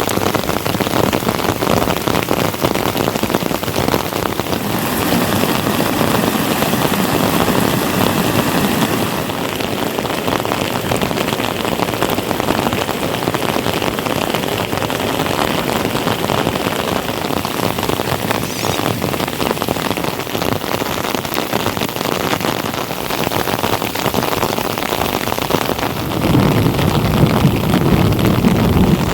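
Heavy monsoon rain falling steadily, a dense, even hiss, growing louder and deeper for a few seconds near the end.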